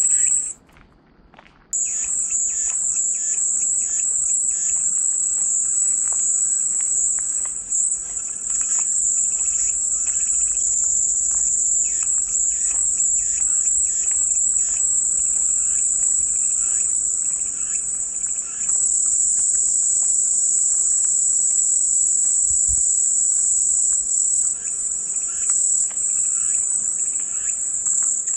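Cicadas buzzing in a steady, high-pitched chorus. It drops out for about a second near the start, then resumes. Faint bird chirps run underneath.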